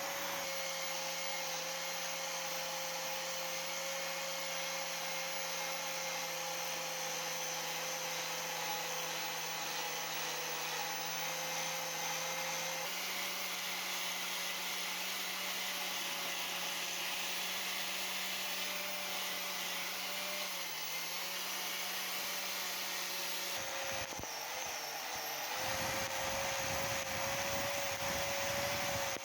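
Electric power tool running steadily with a constant whine over a rushing noise. The tone changes abruptly about halfway through and again near the end.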